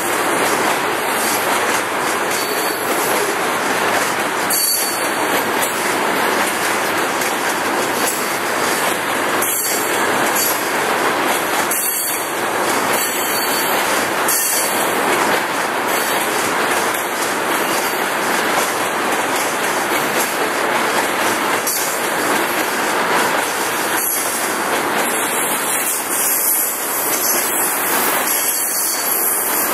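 Freight train of covered hoppers and ethanol tank cars rolling past: a steady, continuous noise of steel wheels on rail.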